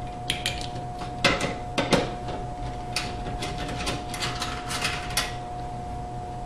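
Scattered clicks and knocks of dishwasher parts being handled and worked loose as the support rod is removed from the sump, over a faint steady hum.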